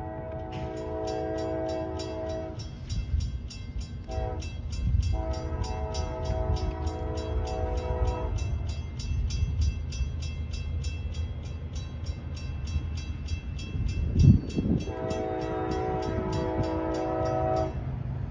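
Diesel locomotive air horn sounding a chord in several blasts: a long one, a short one, another long one, then after a pause of several seconds a last long blast near the end. Under it runs the steady low rumble of the passing train, and a fast, regular high ringing of a grade-crossing bell.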